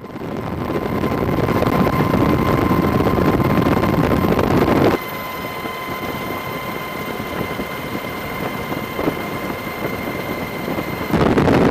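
Steady rushing engine-and-wind noise with a faint thin steady whine, dropping in level about five seconds in and coming back louder near the end.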